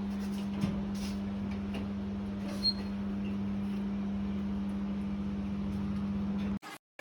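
Steady, even machine hum from a running electric motor, with a few faint clicks over it; it stops abruptly near the end.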